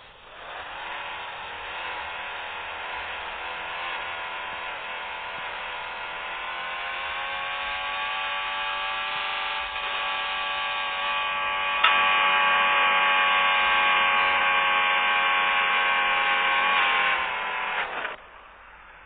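A small electric motor whirring steadily, its pitch rising a little; it gets louder after a click about twelve seconds in and cuts off near the end.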